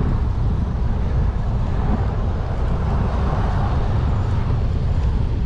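Strong gusty wind buffeting the microphone of a riding cyclist: a steady heavy rumble with a rushing hiss that swells a little about three seconds in.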